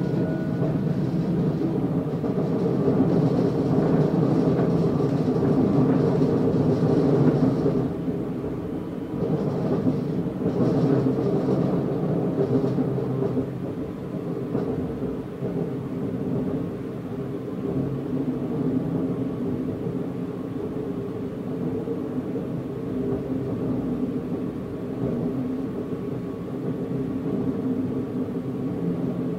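Passenger train running along the line, heard from inside the carriage: a steady rumble with a hum of several steady tones, louder for the first eight seconds or so and then easing slightly.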